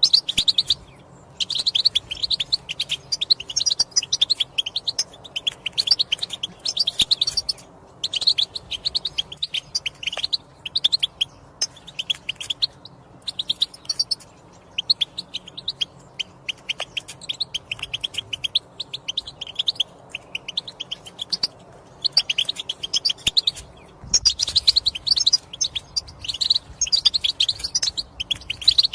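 European goldfinch twittering: rapid, high chirping phrases of a few seconds each, broken by short pauses.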